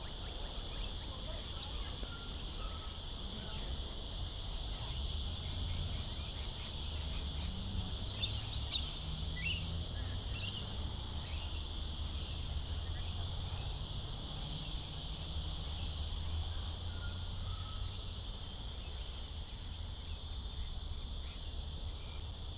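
A steady chorus of insects such as crickets, with a higher insect drone that cuts off suddenly near the end. A few quick bird chirps come about a third of the way in, over a low background rumble.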